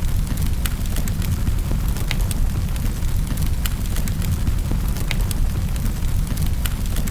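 Wood fire in a fireplace crackling: sharp pops and snaps, several a second, over a steady low rumble of the flames.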